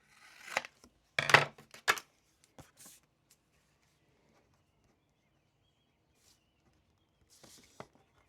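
Brief bursts of rustling and sharp knocks in the first few seconds, the loudest a little over a second in, and a shorter one near the end, with near silence between: study materials being handled at a desk.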